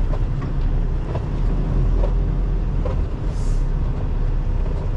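Semi truck's diesel engine running with a steady low rumble while the truck moves slowly. A short hiss comes about three and a half seconds in.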